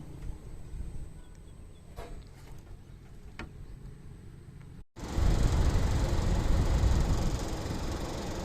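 Air-conditioning unit machinery running with a low rumble and a couple of faint clicks; about five seconds in, after an abrupt cut, it becomes a much louder, dense rumbling run.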